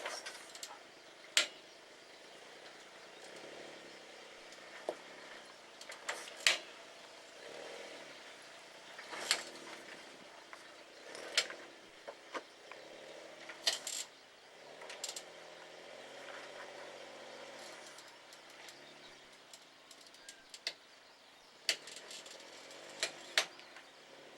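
Suzuki Jimny JB23's small three-cylinder turbo engine running slowly in low gear, faint and steady, while crawling over rocks. Sharp knocks and clacks come at irregular intervals, about a dozen in all, as the truck works over the rocks.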